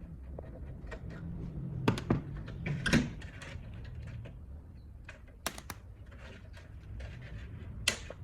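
A few sharp knocks and clicks of hard parts and tools being handled during hands-on work on an old mixing desk, two close together about 2 s in, another about 3 s in, a pair about 5.5 s in and one near the end, over a low hum.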